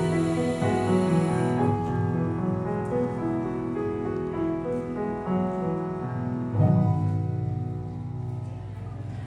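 Piano playing the closing bars of a slow worship song, sustained chords without voices. A last chord is struck about two-thirds of the way through and rings out, fading away.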